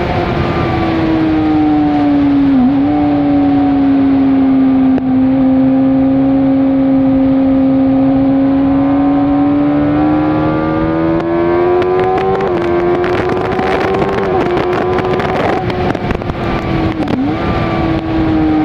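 Suzuki GSX-R600 K4's inline-four engine, through its Werx aftermarket exhaust, running hard at high revs on track. Its pitch sags slowly, climbs again about ten seconds in, and dips briefly about three seconds in and again near the end. The engine sounds rougher and crackly between about twelve and sixteen seconds.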